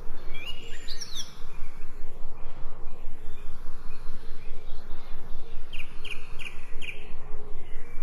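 Small birds chirping: a quick cluster of gliding chirps about half a second in, and a run of about five short, evenly spaced chirps near the end, over a steady, pulsing background noise.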